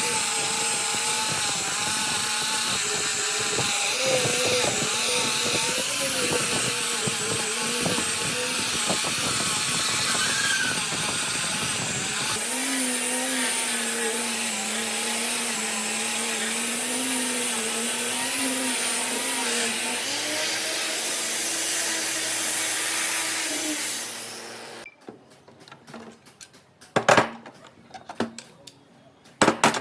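A woodworking power tool runs steadily, rougher with a wavering pitch for the first twelve seconds or so, then smoother, until it cuts off about 25 seconds in. A few sharp knocks and clicks follow.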